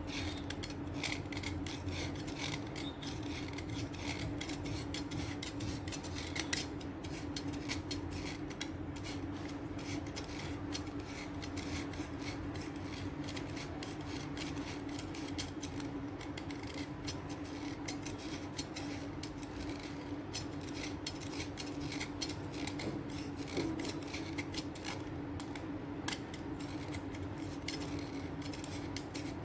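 Sticks of chalk being cut with a blade cutter: a continuous run of quick, crisp scraping and crunching strokes, over a low steady hum.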